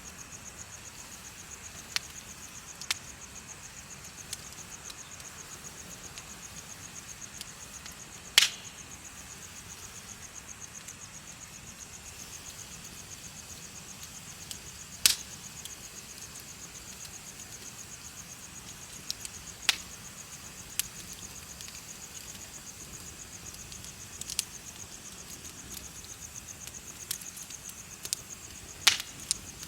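Bonfire crackling, with about a dozen sharp pops scattered irregularly, over steady, high, rapidly pulsing insect chirping.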